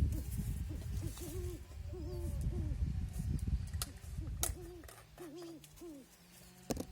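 A bird's repeated short hoots, each rising and falling in pitch, about two a second, over a low rumble that stops about five seconds in.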